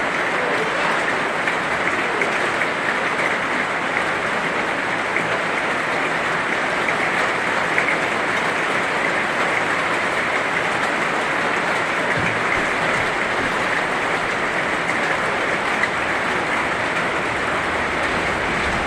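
Heavy rain falling steadily: an even hiss with scattered sharp ticks of drops.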